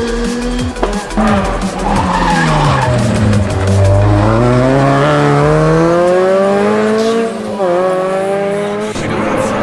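Rally car engine at full attack. The revs fall as it brakes into a corner with crackles on the overrun, then climb steadily as it accelerates out, with a quick gear change about seven and a half seconds in.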